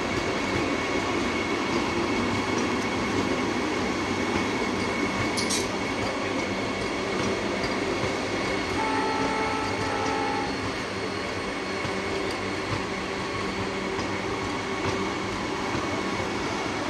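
Electric passenger train moving past on the rails: a steady rumble of wheels and running gear with a faint, steady high whine, and a single sharp click about five and a half seconds in.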